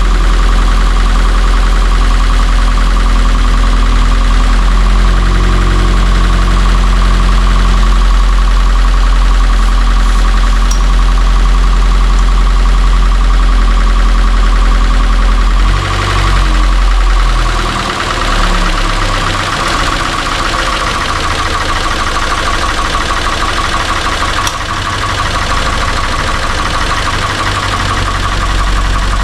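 Toyota 86 / Subaru BRZ's flat-four engine idling steadily with the air conditioning running while the system is charged with refrigerant. About halfway through, its note shifts in steps and then settles again.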